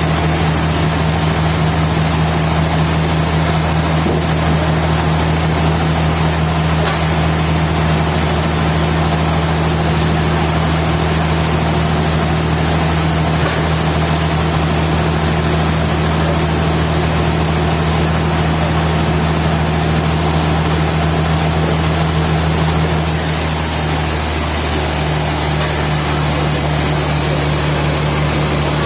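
Sawmill machinery running steadily, with a low, even engine-like hum under a constant noisy din. About 23 seconds in, a higher hiss comes in and the hum drops a little in pitch.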